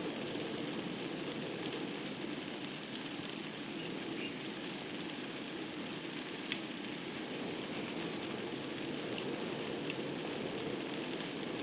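Wood fire burning in a fireplace: a steady hiss and rush of flames with scattered sharp crackles of burning logs, the loudest about six and a half seconds in.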